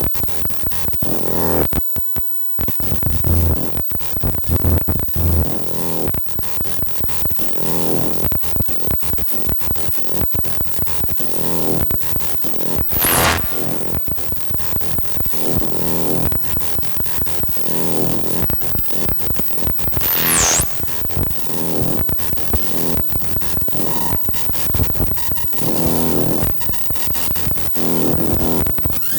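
Noisy, rhythmic electronic music from a hardware synthesizer and drum-machine setup, with a short dip about two seconds in. Two high whistling sweeps dive down in pitch, one near the middle and one about two-thirds through.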